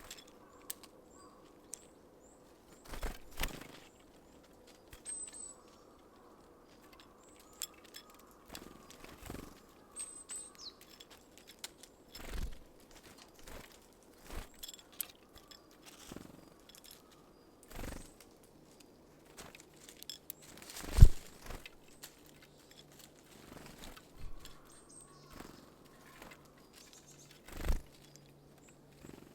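Small birds at a feeder pecking at sunflower seeds: irregular sharp taps and knocks, the loudest one about two-thirds of the way through. A few faint, brief high chirps come in between.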